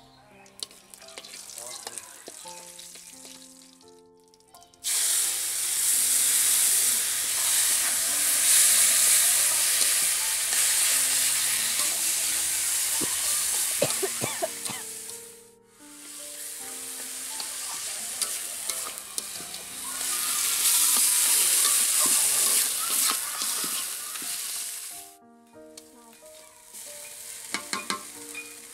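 Food frying in hot oil in a metal kadai, a loud sizzle that starts suddenly about five seconds in and is stirred; it drops away briefly near the middle, resumes, and dies down near the end, where a few clinks of a ladle on the pan are heard. Soft background music with plucked notes runs underneath.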